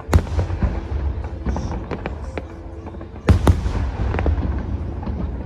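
Aerial fireworks shells bursting in a string of sharp bangs and low booms, the loudest just after the start and a pair about three seconds in, with music playing underneath.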